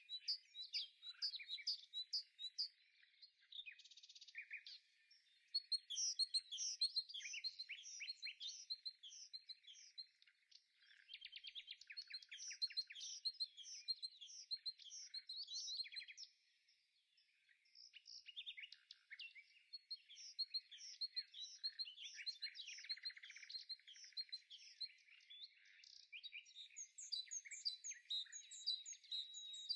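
Small songbirds chirping and trilling: dense, quick high chirps with bursts of rapid trills, and a brief pause about halfway through.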